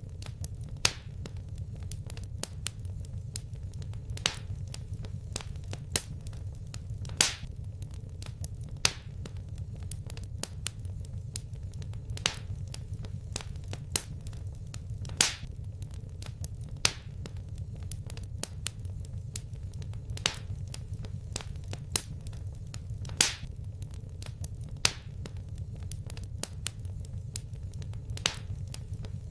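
Fire crackling in a fireplace: irregular sharp pops and snaps every second or two, some louder than others, over a steady low rumble.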